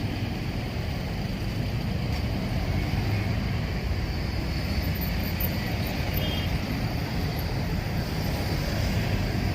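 Steady street traffic noise: vehicle engines and road rumble.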